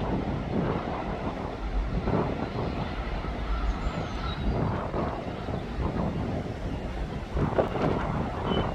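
Heavy earthmoving machinery at work: a steady engine rumble with irregular knocks and rattles.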